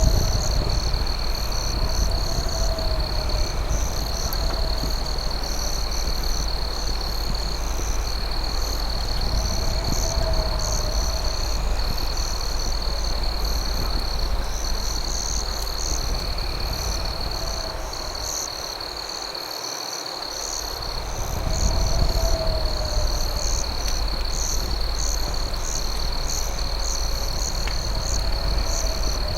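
Night insect chorus: a steady high cricket trill with faster chirping insects above it, and a wavering frog-like call coming back every few seconds. Underneath is a steady low rumble that fades for a couple of seconds about two-thirds of the way through.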